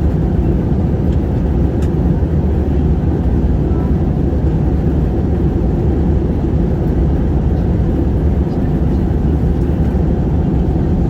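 Steady low rumble of an airliner's engines and airflow heard inside the passenger cabin, while the plane prepares for arrival.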